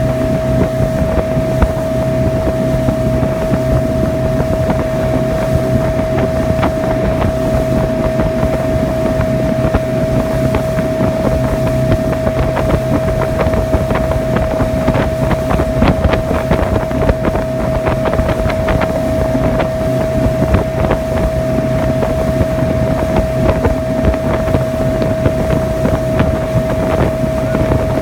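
Seaswirl motorboat under way at a steady cruising speed, its engine running with one constant tone over a low rumble, and wind buffeting the microphone.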